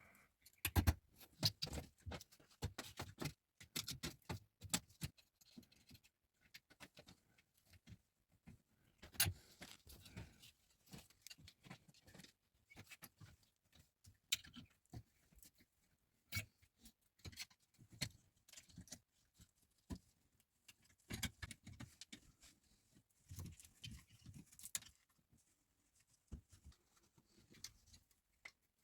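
Irregular light knocks and clicks, coming in loose clusters with short pauses between.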